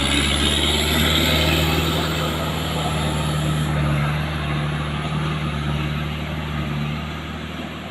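A palm-fruit transport truck's engine running at a steady note, growing a little fainter near the end.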